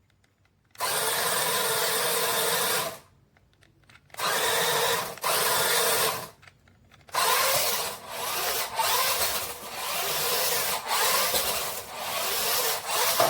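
Carox 1:18 RC monster truck's electric motor and drivetrain whirring in three bursts of throttle, with short stops between them.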